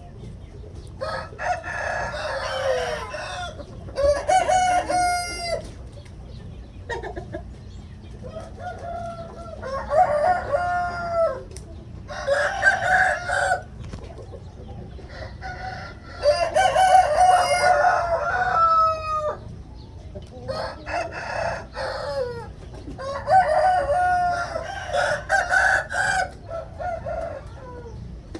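Gamefowl roosters crowing, about eight crows one after another, several birds answering each other with some crows overlapping.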